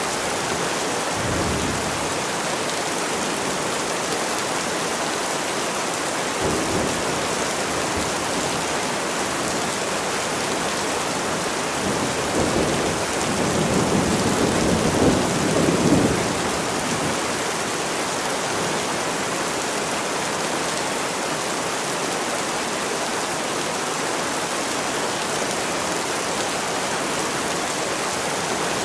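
Steady rain with low rolls of thunder; the longest and loudest rumble builds about twelve seconds in and fades a few seconds later.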